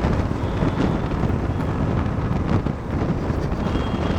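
Wind buffeting a helmet-mounted microphone while riding a motorcycle, a steady low rumble with road and vehicle noise beneath.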